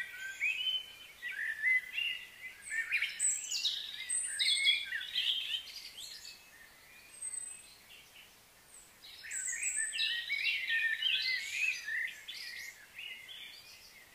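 Songbirds singing, quick runs of chirps and whistled gliding notes in two bouts with a pause of a few seconds between.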